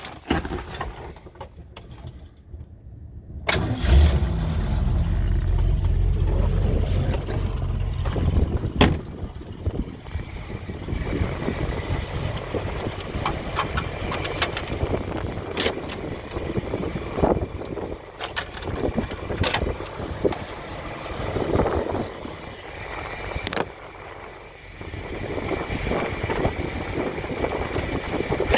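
Ford 289 V8 in a 1974 Land Rover Series 3 starting up about four seconds in, then running.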